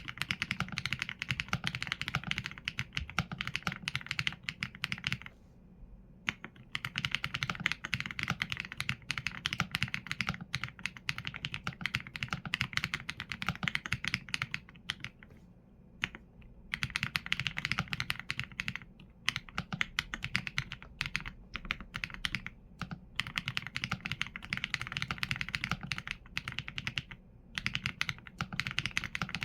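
Typing on a mechanical keyboard with Leobog Graywood V4 linear switches and PBT keycaps (Qsenn A75): rapid, continuous keystrokes in quick runs. The runs break off in brief pauses about five, fifteen and twenty-seven seconds in.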